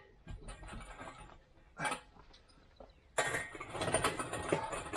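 Metal clinking and rattling as an engine hoist lifts a heavy lathe part: a short clank about two seconds in, then louder, busier clatter for the last two seconds.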